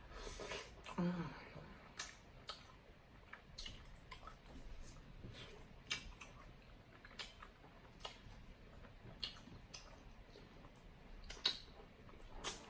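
Close-miked eating of king crab meat: wet mouth clicks and smacks of chewing, roughly one every second, with a louder cluster of sounds as the meat goes into the mouth at the start.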